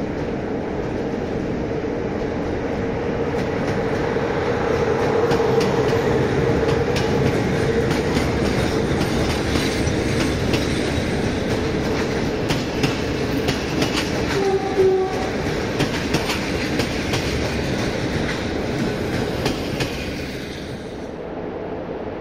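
Passenger train hauled by a Romanian 060-EA electric locomotive rolling past on the station track: a steady whine in the first third, then the carriages' wheels clicking over rail joints, with a brief squeal about two-thirds through. The sound drops away abruptly near the end.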